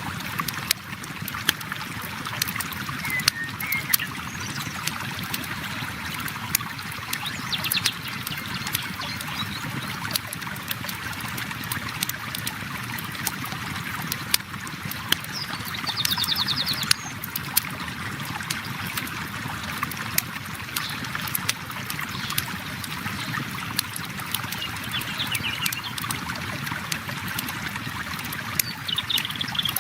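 A river flowing steadily, with a wood campfire crackling over it in frequent sharp pops and snaps.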